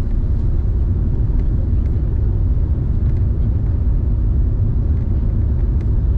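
Steady low cabin rumble inside an Airbus A380 airliner, the drone of its engines and airflow heard from a passenger seat, with a few faint ticks from the cabin.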